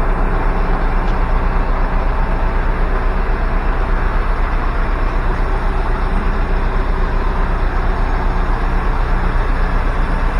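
A motor running steadily at constant speed, a loud low rumble with a fast, even pulse that does not change.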